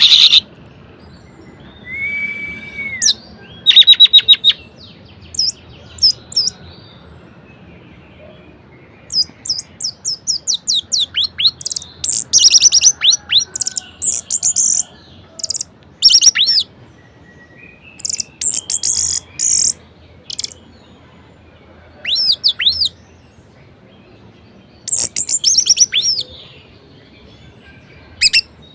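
Orange-headed thrush singing a varied, lively song: bursts of rapid, sharp down-slurred notes and fast trills with short pauses between them, and one lower drawn-out whistle about two seconds in.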